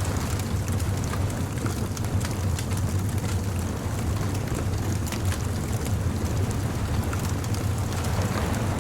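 Bonfire crackling with scattered sharp pops, over a steady low rumble.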